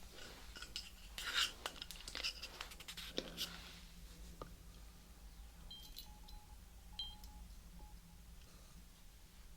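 Stethoscope being handled: a run of soft clicks and rustles for the first few seconds, then two faint metallic clinks, about six and seven seconds in.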